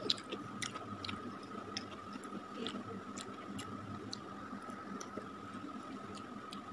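A person chewing spicy instant noodles with the mouth close to the microphone: scattered small wet clicks and smacks, faint, over a steady high tone in the room.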